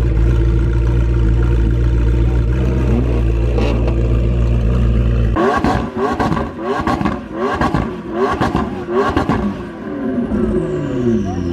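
A car engine running with a steady deep drone, then, after an abrupt change about five seconds in, revved in a string of about six quick throttle blips roughly half a second apart, its pitch falling away near the end.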